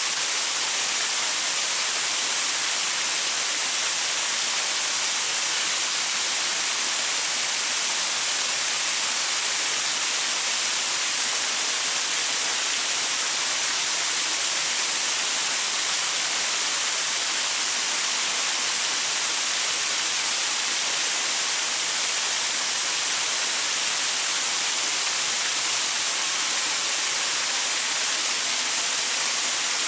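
Waterfall pouring over rocks: a steady, even rush of water, strongest in the high hiss with little low rumble.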